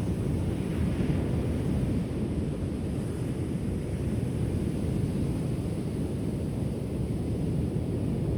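Ocean surf: a steady, low wash of waves breaking on the shore, swelling slightly about a second in.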